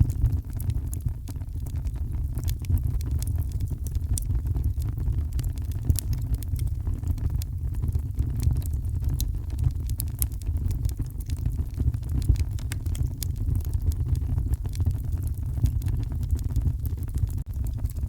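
Wood fire crackling with frequent small sharp pops over a steady deep rumble of heavy rain.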